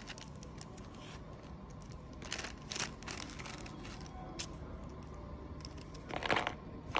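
Faint rustling and scraping as a car floor carpet is handled, with scattered small clicks and a louder rustle about six seconds in.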